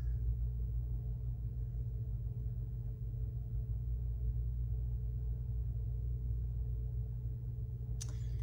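A steady low hum with a faint held tone above it, unchanging throughout, and a short rustle near the end.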